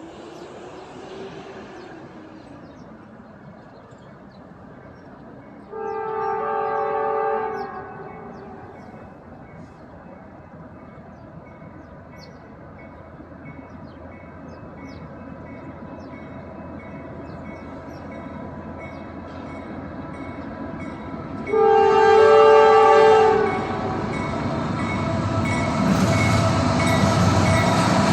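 Diesel locomotives of a Norfolk Southern intermodal freight train approaching and sounding a multi-chime air horn in two blasts, the second longer and louder. A regular ding sounds about once a second between the blasts, and the rumble of the train builds steadily toward the end.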